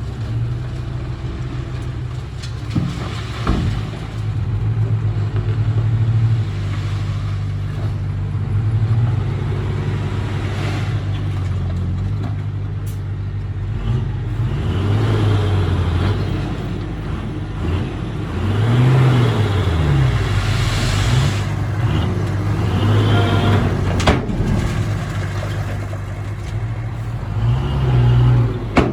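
Small crawler bulldozer's diesel engine working, its pitch rising and falling as it is throttled up and down, with a few sharp metallic knocks.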